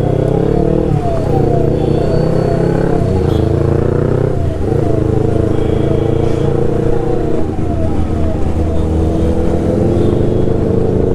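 Yamaha R3 parallel-twin engine running through a loud aftermarket exhaust while the motorcycle is ridden at a steady pace, with the engine note dipping briefly about four seconds in. A short falling chirp repeats about twice a second over it.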